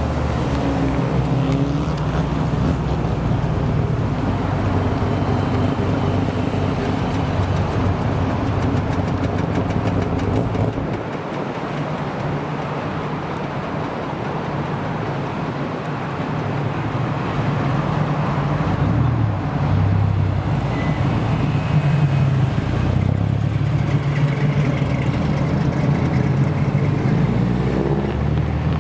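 American muscle car engine running with a low, steady rumble; it drops away about eleven seconds in and builds back up from about seventeen seconds, wavering in pitch as it does.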